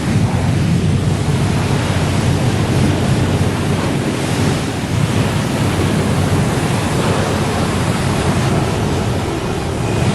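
Car wash running: a steady, loud rushing noise with a low hum underneath.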